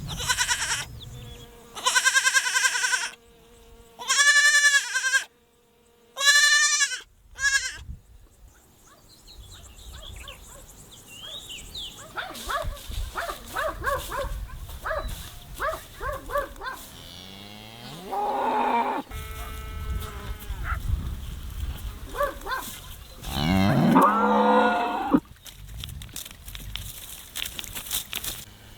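Farm animals calling: about five loud, high, drawn-out calls in the first eight seconds, then fainter calls and two longer, lower calls at about 18 and 24 seconds.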